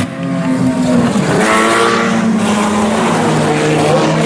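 A field of IMCA Sport Compact front-wheel-drive race cars running at racing speed, several engines at once at different pitches, one revving up about a second in.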